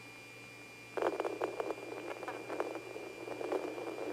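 Police radio channel: faint hiss with a thin steady tone, then from about a second in a choppy, garbled transmission that can't be made out.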